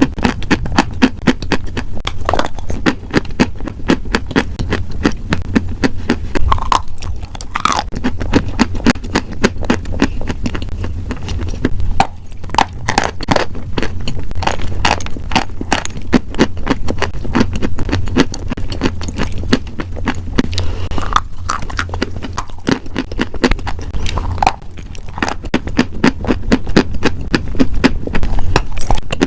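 Close-miked chewing and crunching of crunchy food, a dense run of rapid crackling bites and chews with no pause.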